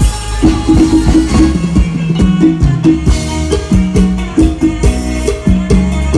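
Thai procession band (khana hae) music played loud through a large sound system, with a drum kit striking a quick, steady beat over a pitched bass line.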